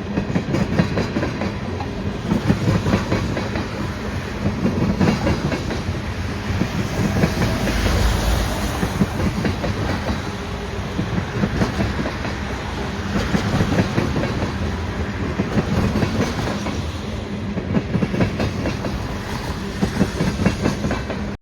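Freight cars of a passing train rolling by, with steady clickety-clack from the wheels running over the rail joints.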